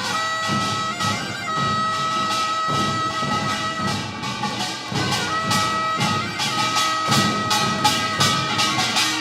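Instrumental music: a wind instrument holds long notes with short ornamental turns over a regular percussion beat.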